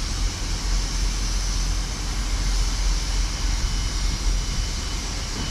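Class 158 diesel multiple unit running, heard as a steady rumble mixed with wind buffeting the microphone.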